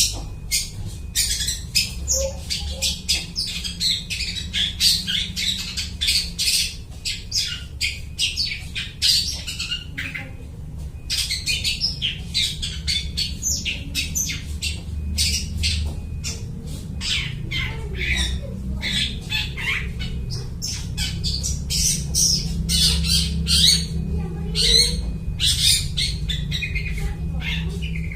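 Long-tailed shrike (cendet) singing in full voice: a fast, continuous run of harsh, scratchy chattering notes with mimicked calls of other birds, pausing briefly about ten seconds in. A steady low hum runs underneath.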